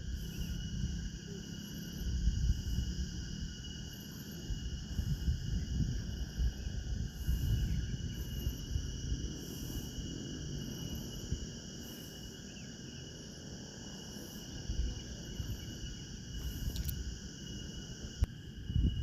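Insects, such as crickets, trilling steadily in several high, even tones, with a faint chirp pulsing about once a second above them. An uneven low rumble runs underneath.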